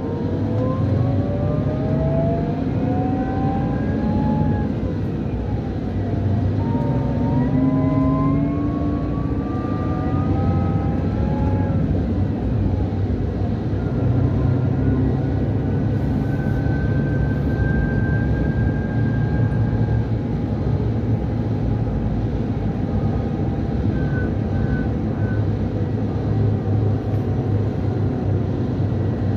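A Scania K440 IB coach's 13-litre DC13 inline-six diesel, heard from inside the bus, accelerating. A whistle rises in pitch, drops back about five seconds in as the Opticruise gearbox changes gear, and rises again until about twelve seconds in. It then holds a steady high whistle over the engine's even rumble while cruising.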